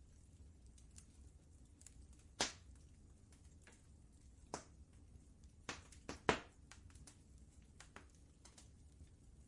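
Wood fire crackling, with irregular sharp pops; the loudest come about two and a half seconds in and in a quick cluster around six seconds in. A low, steady rumble runs underneath.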